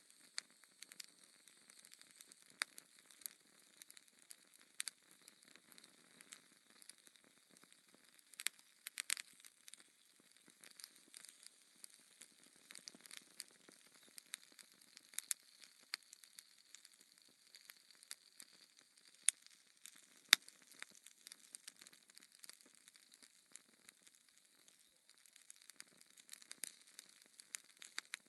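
Wood fire crackling in a fireplace: quiet, irregular pops and snaps over a faint hiss, with two sharper pops a little after the middle.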